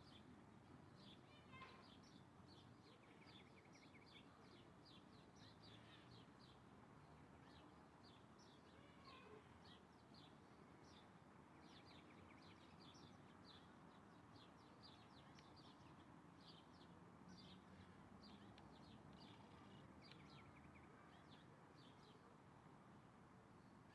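Faint birdsong: a steady run of short, high chirps, several a second, with a few brief lower trills among them, over a low background hiss.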